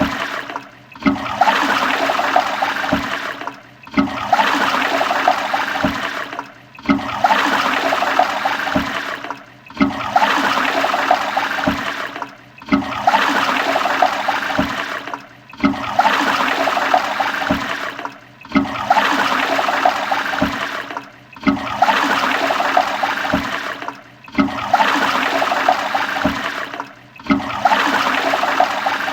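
Toilet flushing: rushing, gurgling water that breaks off briefly and starts again about every three seconds.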